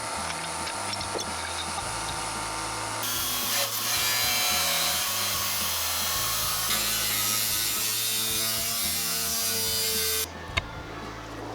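A power tool cutting or grinding in the shop: a steady harsh noise starts about three seconds in and cuts off abruptly about ten seconds in, after a quieter stretch of lighter tool noise.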